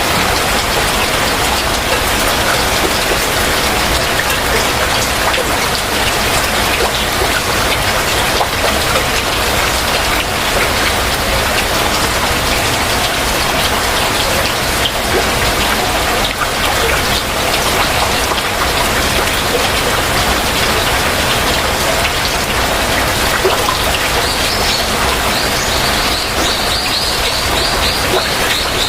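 Heavy rain falling steadily, with scattered drops pattering on surfaces. Near the end a bird calls a quick, high-pitched series of short repeated notes over the rain.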